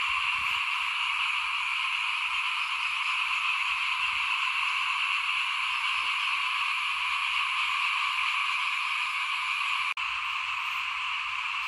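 A dense chorus of many small frogs calling at once, a steady unbroken wall of sound that drops out for an instant about ten seconds in.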